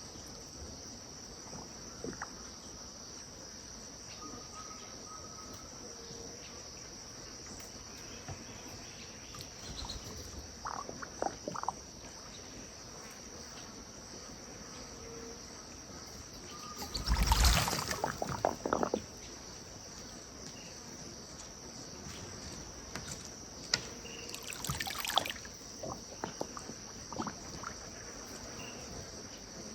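Insects, crickets among them, keep up a steady high-pitched drone, with faint short bird whistles now and then. A sudden loud, noisy burst comes about two-thirds of the way in, and a shorter one a few seconds later.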